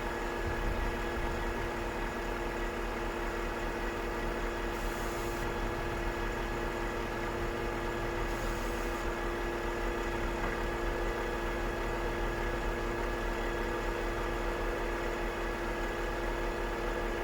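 Volvo FH 540 truck's 13-litre straight-six diesel idling steadily at an even pitch. Two short faint hisses come about five and eight seconds in.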